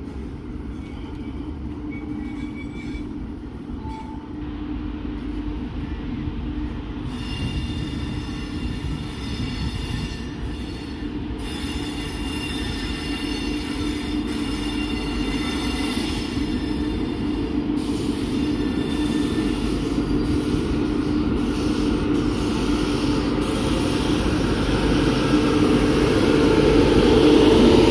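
A WAP-7 electric locomotive and its passenger coaches approach at low speed and grow steadily louder, with a steady low hum. From about seven seconds in there is a high, thin squeal from the wheels as the train slows into the station. The locomotive is loudest as it runs past near the end.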